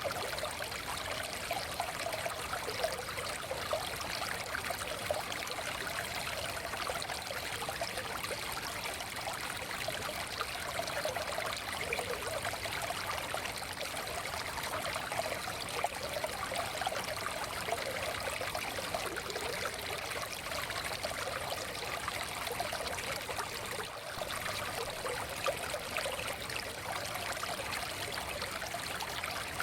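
Small forest stream flowing steadily over rocks, a continuous babbling rush of water with light trickling and splashing.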